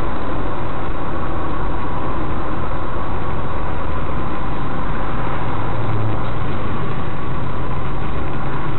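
Steady vehicle engine and road noise heard from inside a moving car, recorded by a dashcam's microphone, with a faint steady tone running through it.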